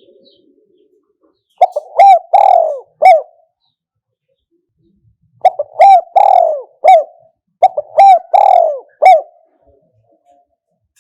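Spotted dove cooing: three loud phrases of several coos each, the first about two seconds in and the other two close together past the middle.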